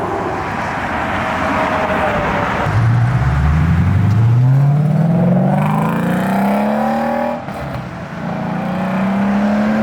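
A car's engine accelerating hard as it pulls away: the exhaust note climbs steadily in pitch for about four seconds, drops briefly at a gear change, then climbs again.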